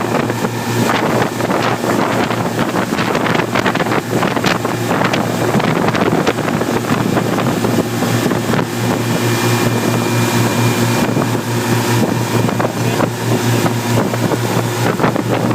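A steady engine hum with gusty wind buffeting the microphone.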